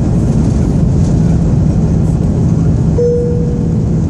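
Airliner cabin noise: a loud, steady rush of engine and air sound with a low hum. About three seconds in, a single short tone rings out and fades.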